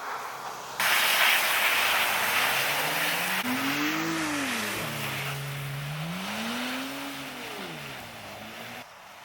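A car engine revving up and falling back twice, with a steady stretch between, under a loud rushing hiss that starts abruptly about a second in.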